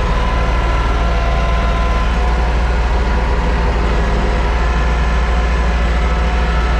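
Subcompact tractor's diesel engine running steadily at an even speed.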